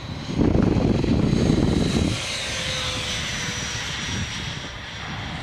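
Electric ducted fan of a FreeWing A-6 Intruder RC jet whining in flight just after takeoff. A loud rush of noise fills the first two seconds, then the high whine carries on steadily, slowly dropping in pitch.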